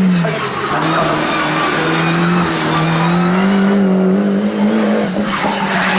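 Race car engine under hard throttle: its pitch drops at a gear change just after the start, then climbs steadily.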